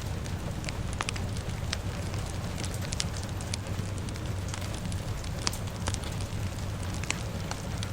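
Fire crackling, with frequent sharp irregular pops over a steady low rumble, mixed with the steady hiss of rain.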